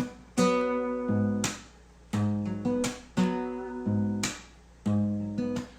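Solo acoustic guitar playing the opening chords of a song, each chord struck and left to ring out, about one a second, before the singing starts.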